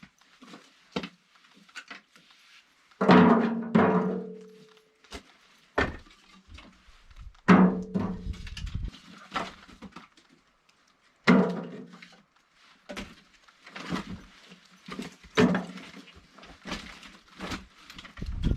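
A series of irregularly spaced knocks and clunks, the loudest about a second in to a few seconds apart, several of them leaving a short pitched ring, with fainter taps between.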